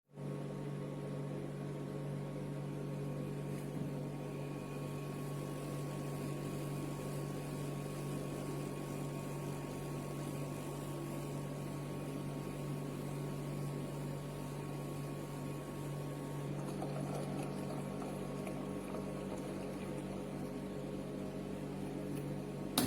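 Small countertop ice maker running with a steady machine hum, changing slightly about two-thirds of the way through, with a short click at the very end.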